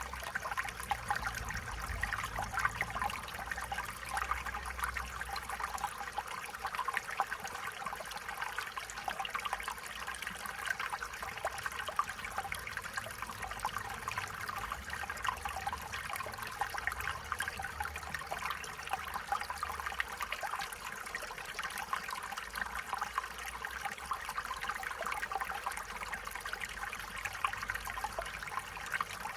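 Stream water running and trickling, a steady babbling splash.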